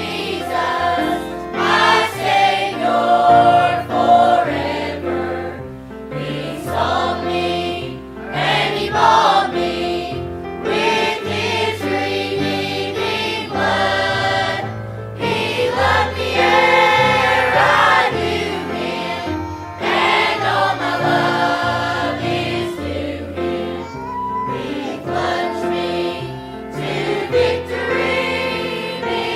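Congregation or choir singing a gospel hymn with instrumental accompaniment and a bass line.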